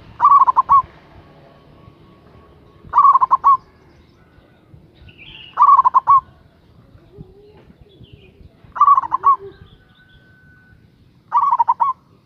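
Zebra dove (perkutut) cooing its song, five short rolling phrases of a few quick notes each, one about every three seconds.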